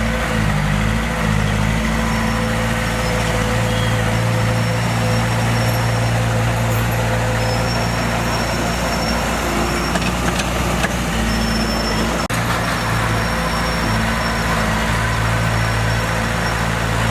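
Diesel engine of heavy earthmoving machinery running steadily under load, with a momentary break about two-thirds of the way through.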